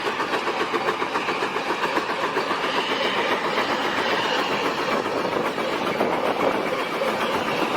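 Steam traction engine running, its mechanical clatter coming as a quick, even rhythmic beat.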